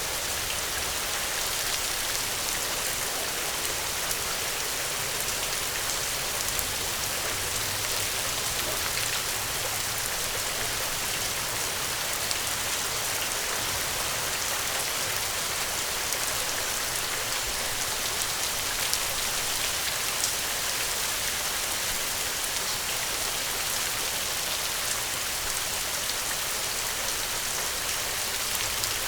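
Steady rainfall, with scattered drops pattering on surfaces.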